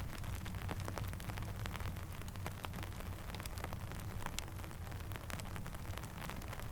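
Steady rainfall with a low rumble, mixed with many small, irregular pops and ticks like a crackling campfire.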